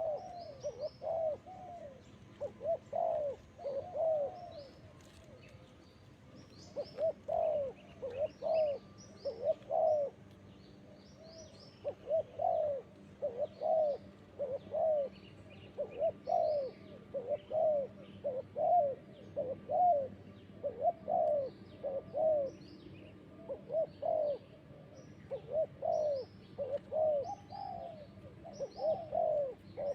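Spotted doves cooing over and over in repeated low phrases, with a short pause early on; faint high chirps of small birds sound above them.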